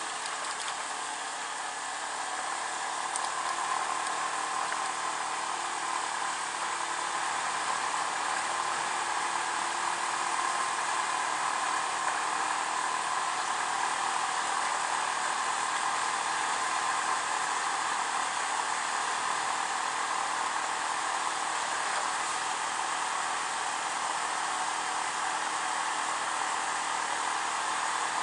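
Steady rush of wind and road noise from a Honda PCX scooter on the move, with its engine running underneath. The level climbs a little in the first few seconds, then holds even.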